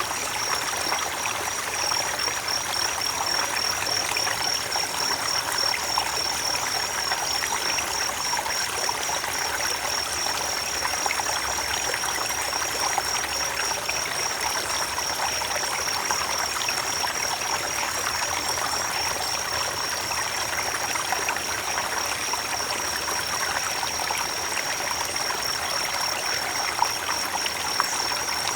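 Creek water running steadily, with a continuous high-pitched trill over it.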